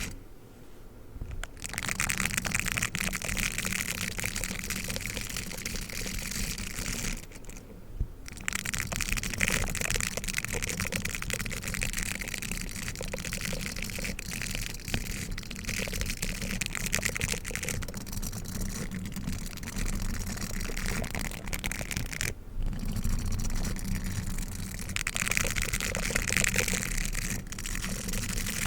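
Dog toothbrush being brushed and scratched in a steady, dense run of scratchy rustling, with short pauses near the start, around eight seconds in and after about twenty-two seconds.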